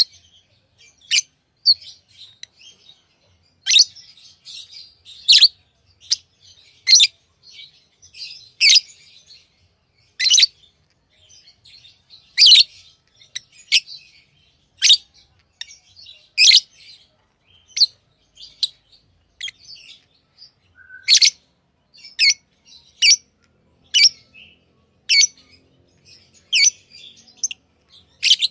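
Pet lovebirds chirping: short, shrill calls about once a second, with softer twittering in between.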